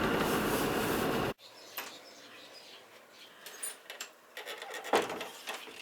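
Steady in-cab running noise of an old Land Rover, cutting off suddenly a little over a second in. After that, a quiet spell with scattered faint clicks and knocks, the loudest about five seconds in.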